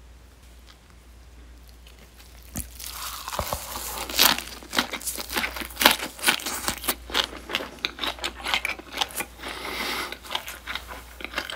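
Close-miked chewing of a lettuce-and-perilla-leaf wrap of raw fish: quiet at first, then from about two and a half seconds in a long run of crunching and wet chewing, many small crunches in quick succession.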